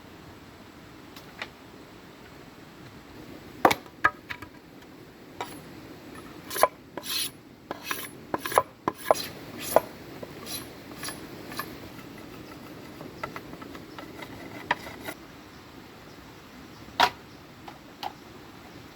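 Irregular wooden clicks, knocks and creaks of bamboo being handled or shifted, coming in a busy cluster for several seconds, then sparse, with one more sharp knock near the end.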